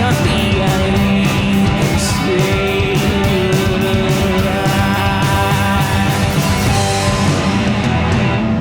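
Live rock band playing an instrumental passage: electric guitar, bass and drums, with steady cymbal hits and no singing.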